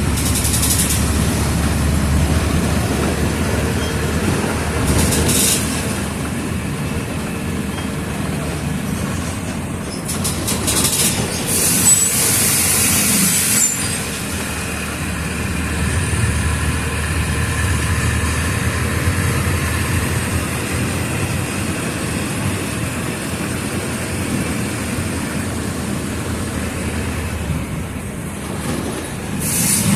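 Mercedes-Benz OF 1722M bus's front-mounted diesel engine running steadily as the bus drives. Several short bursts of hiss are heard: one at the start, one about five seconds in, a longer one in the middle with a brief high squeal, and one at the very end.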